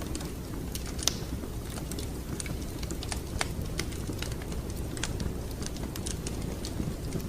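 Wood fire crackling in a fireplace: frequent irregular sharp pops and snaps over a steady low rumble of burning, with one louder pop about a second in.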